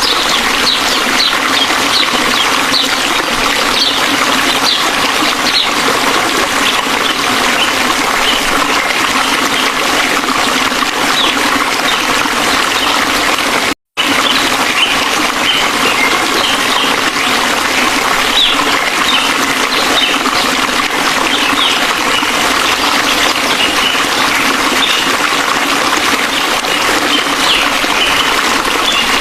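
Waterfall rushing in a loud, steady roar of falling water, cutting out for an instant about halfway through.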